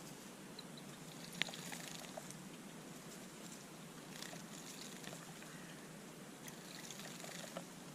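Small wild birds at a garden feeder and water bath: scattered light taps and small splashes over a steady low hiss, with a sharp tap about a second and a half in and another near the end.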